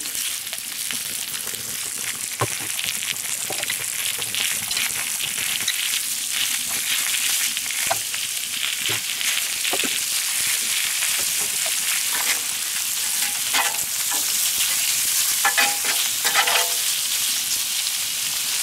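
Chicken strips, pak choi and asparagus sizzling on a hot fire plate (BBQ disk), a steady frying hiss with occasional light clicks and knocks.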